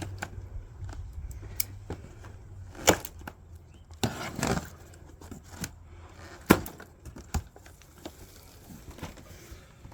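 Cardboard shipping box being opened by hand: scattered knocks, scrapes and rustles of cardboard, with sharp knocks about three seconds and six and a half seconds in.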